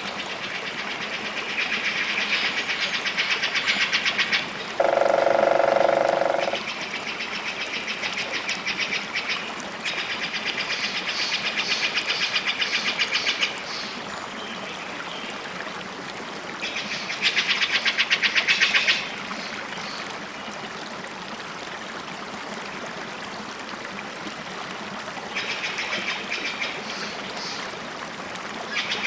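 Birdsong over steadily running water: a series of rapid, high trills, each lasting two to three seconds. About five seconds in comes a louder, lower call.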